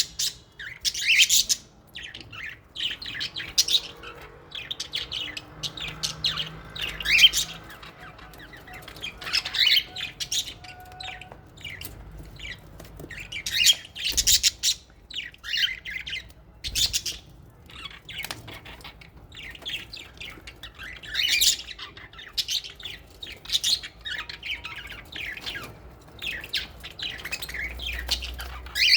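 A flock of small parrots, lovebirds and budgerigars, chirping and squawking almost without pause in a quick jumble of short, shrill calls, some much louder than the rest.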